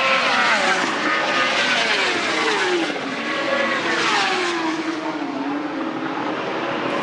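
Racing superbikes at full speed, engines wailing, with the pitch falling twice as they pass by and away.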